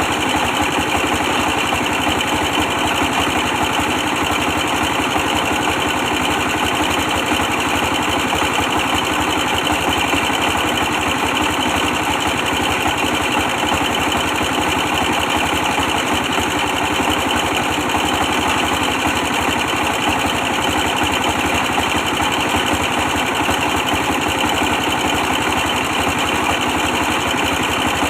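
24 hp stationary diesel engine running steadily under load, driving a brick press machine.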